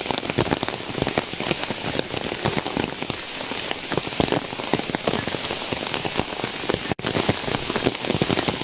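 Heavy rain falling, a dense patter of many separate drop strikes.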